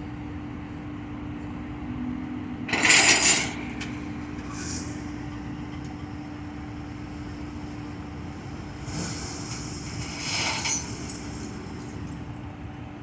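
Truck engine running with a steady hum, broken by a loud rushing noise about three seconds in and a weaker one near nine to eleven seconds.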